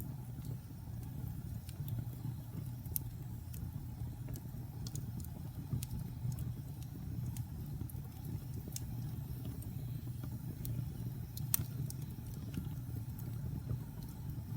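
Wood fire in a fireplace burning with a steady low rumble of flames and irregular sharp crackles and pops, one louder pop about three-quarters of the way through.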